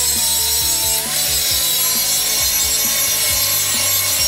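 Handheld 4.5-inch angle grinder with a hard disc grinding a steel auger shaft, beveling and removing old weld. It gives a steady high grinding hiss over the motor's whine, which dips in pitch about a second in as the disc is pressed into the steel.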